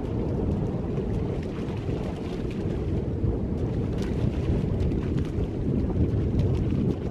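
Strong wind buffeting the microphone: a steady, loud low rumble with no letup.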